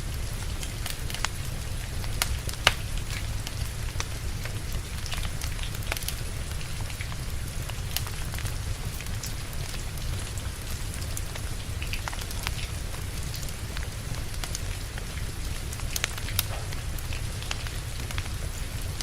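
Steady rain with a wood fire crackling over it: scattered sharp snaps and pops, one louder pop about three seconds in.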